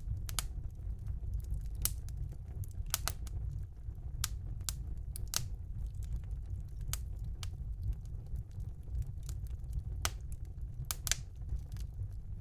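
Wood fire burning in a fireplace: a steady low rumble of the flames with irregular sharp crackles and pops from the burning logs, some coming in quick pairs.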